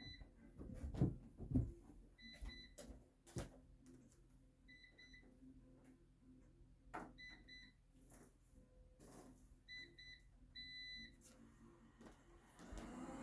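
Short electronic beeps, mostly in pairs, repeating every two to three seconds, with soft clicks and knocks between them and a faint low hum.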